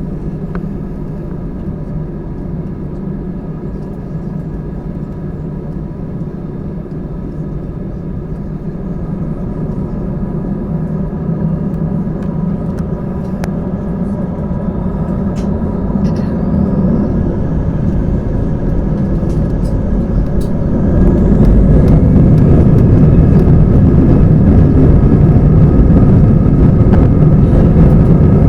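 Airbus A320 jet engines heard from inside the cabin, running at a steady hum that slowly grows louder as thrust is added for takeoff. A whine climbs in pitch about halfway through, and about three-quarters of the way in the sound steps up sharply to a loud, steady rumble as takeoff power is set and the takeoff roll begins.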